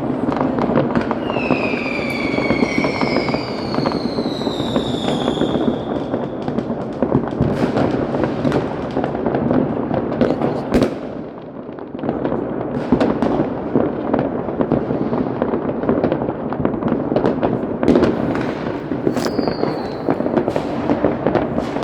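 Many fireworks going off at once in a continuous crackle of bangs and pops. Whistling rockets fall in pitch during the first few seconds, and a short whistle comes again near the end. The barrage eases briefly about halfway through.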